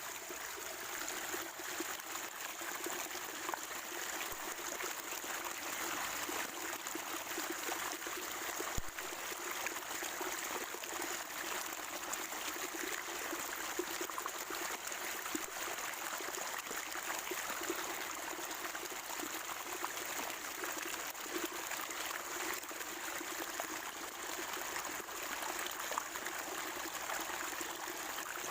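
Spring water trickling and gurgling steadily over stones.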